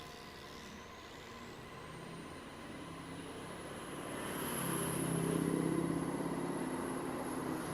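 A motor vehicle running and building up, loudest about five seconds in, with a thin high whine that rises in pitch over the first few seconds.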